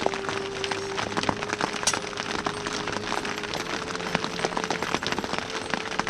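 Heavy rain falling, with dense, continuous drops striking a hard surface. A faint steady tone runs underneath.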